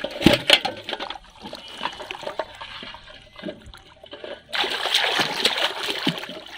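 Water splashing in scattered short bursts, with a longer, louder spell of splashing from about four and a half seconds in to near the end.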